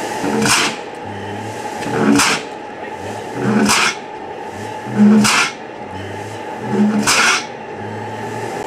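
Antique hit-and-miss gas engine running, firing with a sharp exhaust pop about every one and a half seconds, five times, over a steady mechanical hum.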